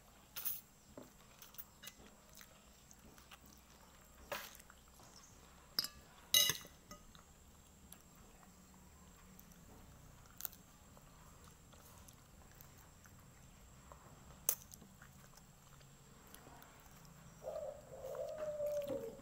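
Quiet close-up eating sounds: chewing, with a few scattered sharp clicks and crunches as fried chicken is bitten. Near the end a drawn-out, wavering animal call begins.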